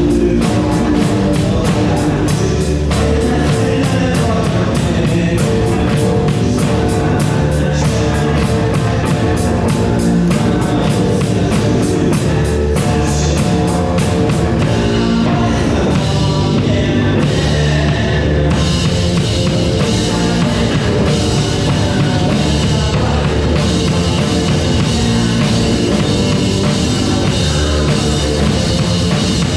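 Rock music played on a drum kit with other instruments. A fast, steady run of cymbal strokes drives the first half, and the arrangement changes about halfway through.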